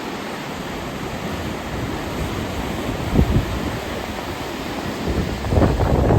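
Steady rushing of the flooded Wien River, with wind buffeting the microphone in low gusts about three seconds in and again near the end.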